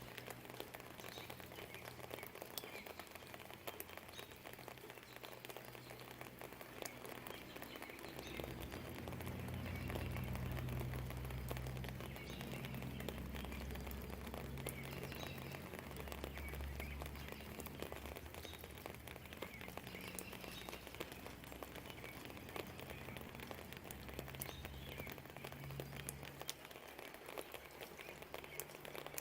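Light rain pattering with scattered drips, faint birdsong chirping, and a low distant rumble that swells for several seconds about a third of the way in, then fades.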